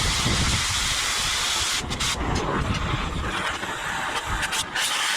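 Oxy-acetylene cutting torch hissing steadily as it cuts steel plate, with wind rumbling on the microphone.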